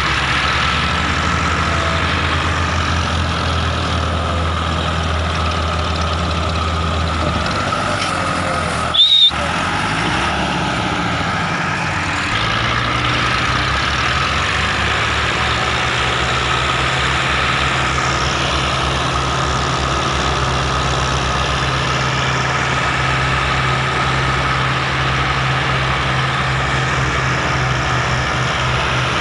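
Massey Ferguson tractor diesel engine running steadily under load. Its note shifts a couple of times, with a brief louder burst about nine seconds in.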